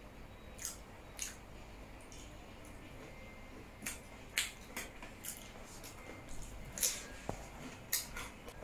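Close-up wet mouth sounds of someone eating soft food by hand: irregular sharp smacks and clicks of chewing and lips, a dozen or so over the stretch, over a faint room hum.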